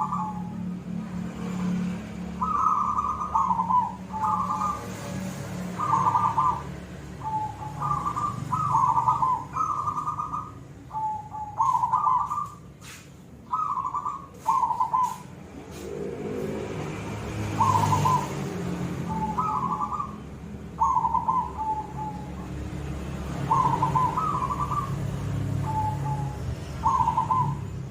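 Zebra dove (perkutut) singing, repeating short cooing phrases that each step down in pitch, over a steady low hum. A few sharp clicks sound about midway.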